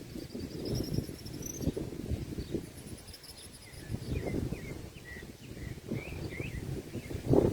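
Outdoor ambience: gusts of wind buffet the microphone with a rough low rumble. Over it, a high pulsed insect trill sounds twice in the first half, and a run of short bird chirps comes in the middle.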